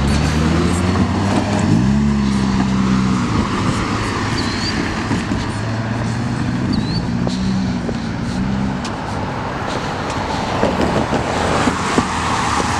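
Road traffic passing over the street crossing: vehicle engines running over a steady wash of tyre and traffic noise. An engine note rises as a vehicle accelerates about two seconds in, and again around the middle.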